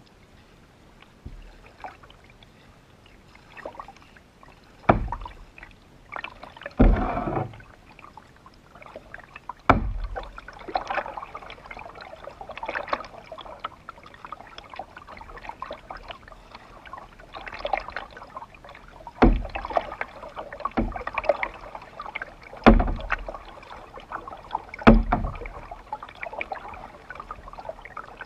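Canoe on the water: splashing paddle strokes and several sharp knocks at irregular intervals.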